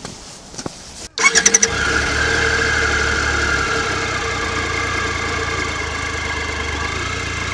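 Triumph Tiger Explorer's three-cylinder engine being started: a quick burst of starter cranking about a second in, then it catches and settles into a steady idle.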